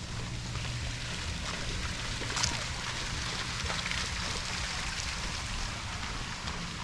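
Running and splashing water with scattered small drips, over a steady low hum.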